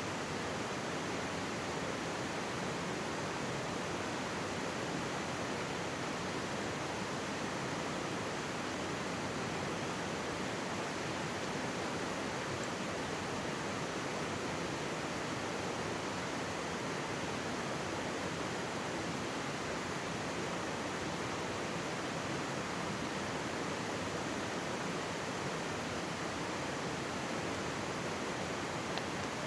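Mountain stream babbling over rocks, a steady, even rush of water with no change.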